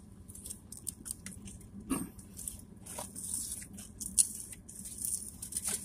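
Close-miked chewing of a mouthful of fried fast food, with scattered wet smacks and crunches.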